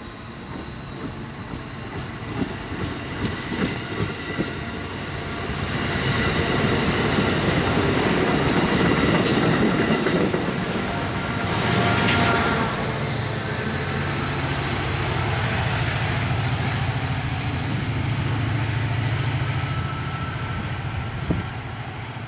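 Train running past on the rails: sharp clicks a few seconds in, then the sound builds into a loud rush of passing cars about halfway, settling into a steady low drone that eases off near the end.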